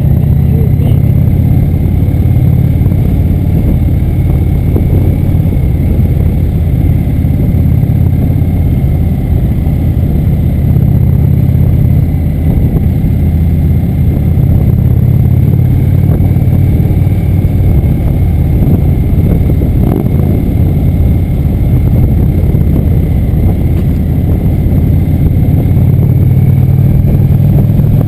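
Motorcycle running steadily under way: a loud, constant low rumble with no clear changes in speed.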